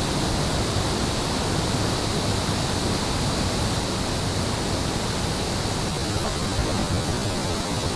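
Steady, even rushing noise with no clear bird calls.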